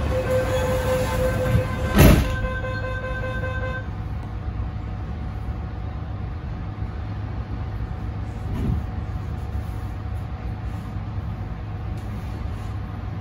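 MTR Tung Chung line A-train running at speed, a steady rumble of wheels and motors heard on board. For the first four seconds a steady pitched tone sounds over it, and about two seconds in there is one sharp, loud knock.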